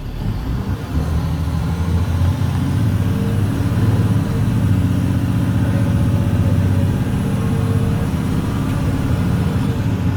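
Caterpillar C7 diesel engine of a 2006 Blue Bird Vision school bus pulling under load, heard from inside the bus. It grows louder over the first couple of seconds, then runs steadily.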